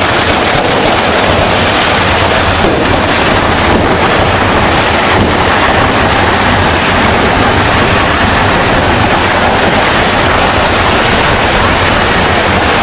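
A loud, unbroken roar of fireworks and firecrackers going off, with dense rapid cracks in the first few seconds.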